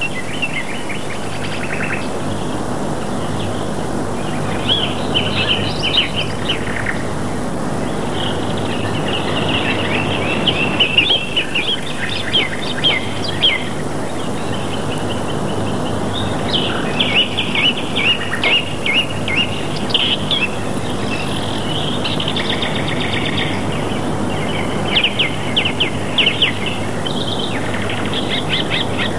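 Small birds chirping and twittering in repeated clusters of short, high calls, with a brief lull about halfway, over a steady background hiss and low hum.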